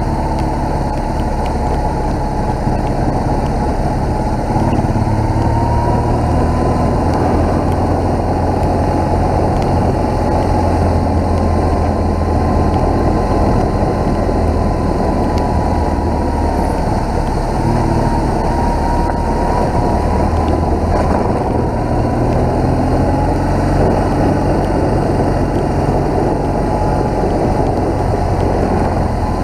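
BMW R1200GS motorcycle's flat-twin engine running steadily on the move, under a dense, even rushing noise.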